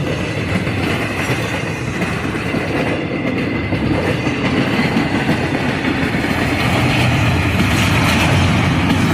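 Intermodal freight train's cars rolling past, a steady rumble and clatter of wheels on rail that grows slightly louder near the end.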